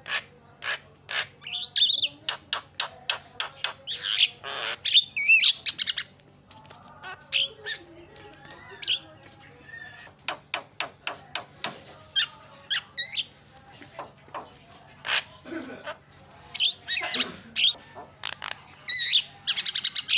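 Javan myna (jalak kebo) calling busily: a rapid string of sharp chips and clicks mixed with swooping whistled notes and harsh squawks.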